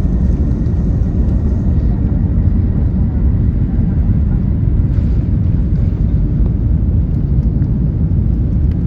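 Airbus A380's four jet engines at takeoff power, a loud, steady, deep rumble, with a faint high tone that fades out about two seconds in.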